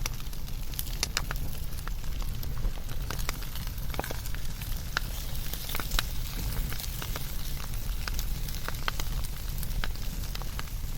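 Fire burning with frequent sharp crackles and pops at irregular intervals over a steady low rumble.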